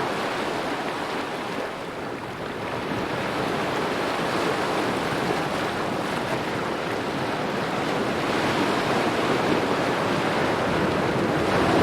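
Small ocean waves lapping on a shore in a steady wash, dipping slightly about two seconds in and swelling slowly toward the end.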